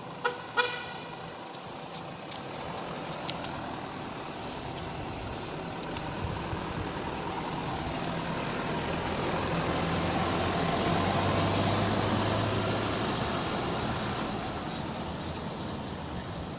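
Two short vehicle horn toots, then a motor vehicle passing, its engine and road noise swelling to a peak about two-thirds of the way in and fading again.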